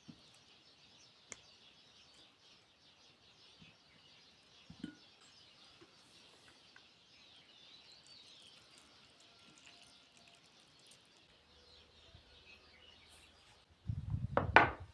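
Birds chirping over a faint, steady high-pitched background chorus, with a few scattered clicks. Near the end come loud thumps, one of them a sharp knock.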